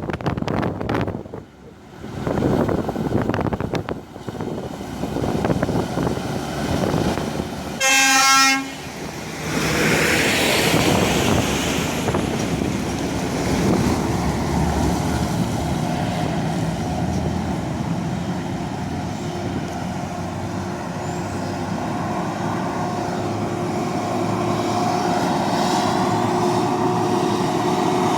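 A heavy coal truck sounds one short horn blast about eight seconds in, then its engine runs steadily and slowly grows louder.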